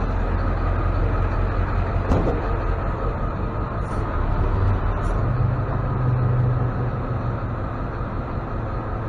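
Tow truck engine idling with a steady low drone that rises slightly in pitch about five seconds in, and a single sharp metallic knock about two seconds in.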